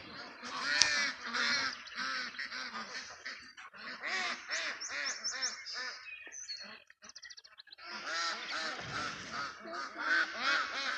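A flock of ducks quacking in a dense, overlapping chorus of repeated calls. About six and a half seconds in there is a short lull with a few high thin chirps before the quacking picks up again.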